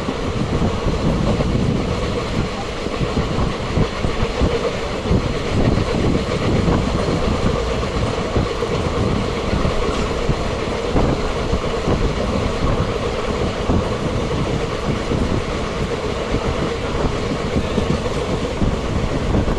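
A train running along the track: a steady, loud rumble of wheels on rails that holds unchanged throughout.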